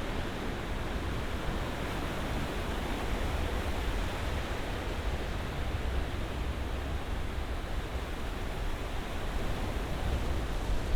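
Ocean surf: a steady, continuous rush of waves with a deep rumble underneath and no separate crashes standing out.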